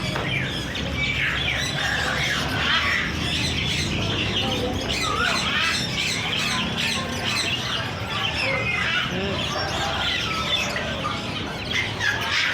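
Many caged birds at a bird market chirping and squawking at once, a dense overlapping chatter of short high calls, over a steady low background hum.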